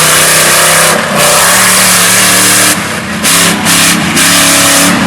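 High-horsepower mega mud truck engine revving hard. The engine note steps up and down, with brief dips about a second in and several more between three and four seconds.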